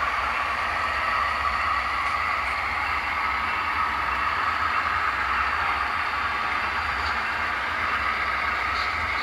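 HO scale model trains running on the layout: a steady, even running noise with no starts, stops or changes.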